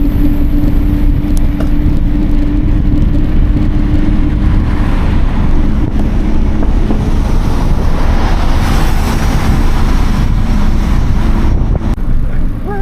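Heavy wind buffeting on the microphone of a camera carried while cycling, a constant low rumble with a steady hum underneath.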